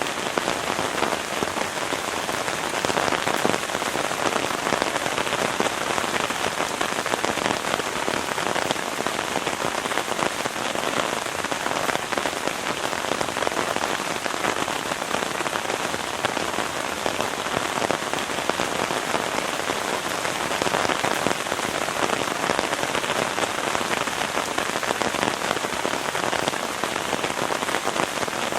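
Heavy rain falling steadily, a dense spray of drop hits with no let-up.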